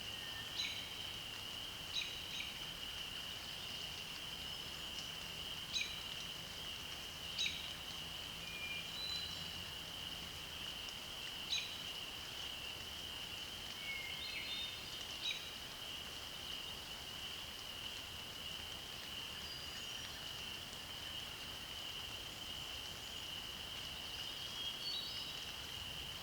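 Outdoor woodland chorus: a continuous high-pitched trill. Over it, birds give about six sharp calls in the first fifteen seconds and scattered faint, brief song notes.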